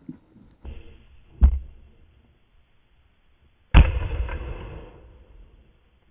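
Two shotgun shots about two seconds apart, the second louder and dying away over about a second.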